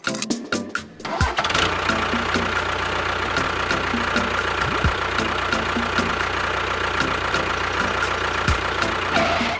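An engine-like motor sound starts about a second in and then runs steadily with a low hum and a steady whine, cutting off at the end.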